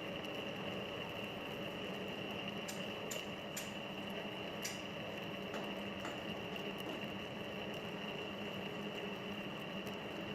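Metal lathe running steadily, a constant mechanical hum with a thin high whine, with a few light metallic clicks about three to five seconds in.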